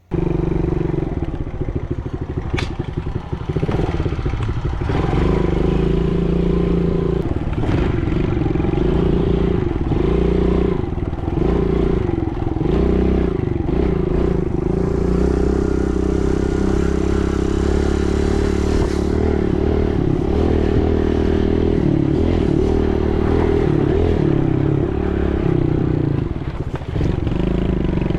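Dirt bike engine running under way, its revs rising and falling repeatedly as the throttle is opened and eased off.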